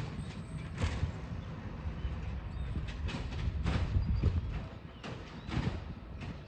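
Garbage truck running with a low engine rumble, and irregular sharp clanks and knocks from its metal body and equipment; the rumble eases off about four and a half seconds in.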